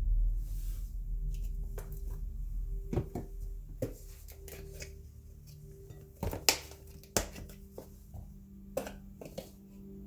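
Dishes and kitchen utensils clinking and knocking while food is prepared: a scatter of sharp clicks and taps, the loudest about six and a half seconds in, over a faint steady low hum.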